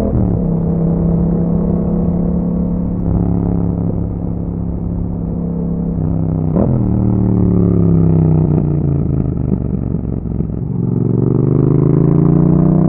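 Yamaha MT-07 parallel-twin engine breathing through an Akrapovic exhaust while riding. The revs drop sharply at the start, hold steady, spike briefly in a quick blip about six and a half seconds in, sink as the bike slows, then climb again near the end as it accelerates.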